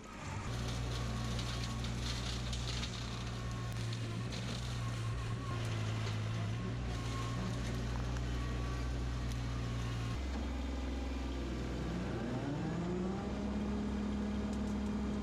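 Kubota L3200 tractor's diesel engine running steadily; about ten seconds in its note drops, then rises smoothly as it revs up and holds at a higher steady speed near the end.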